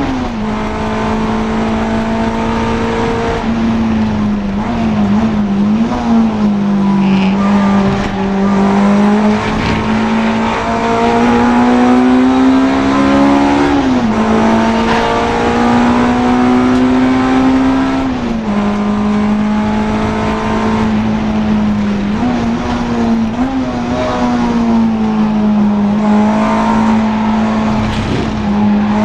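Honda Integra DC2 race car's four-cylinder engine under hard acceleration through the gears. The engine note climbs steadily and drops sharply at each upshift, with a couple of short dips and quick rises in between.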